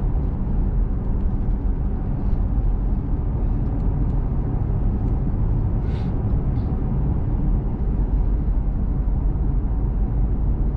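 Steady road noise inside a small truck's cab while driving: a low engine and tyre rumble, with one brief tick about six seconds in.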